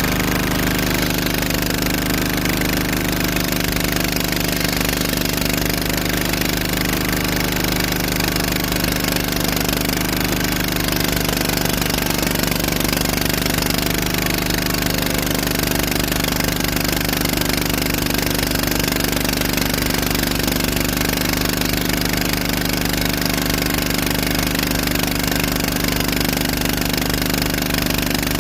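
An engine running at a steady, unchanging speed, with no revving or pauses.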